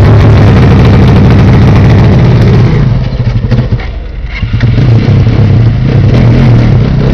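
Dirt bike engine running loud and close, held on the throttle; it falls off briefly about three to four seconds in, then picks back up.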